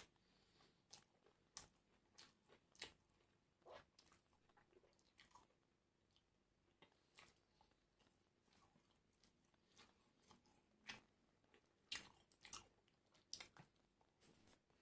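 Faint, irregular crunching and chewing of crispy food close to the microphone: a person biting and chewing, with short crisp crunches every second or so.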